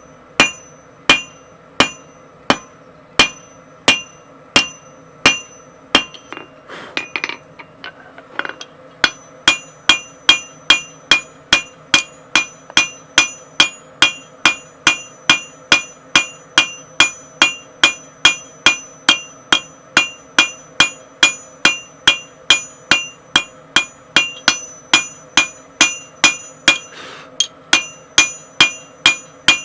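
Blacksmith's hammer striking steel on an anvil in a steady rhythm, each blow ringing. About one and a half blows a second, then a short break with a few light knocks, then faster blows, about two a second.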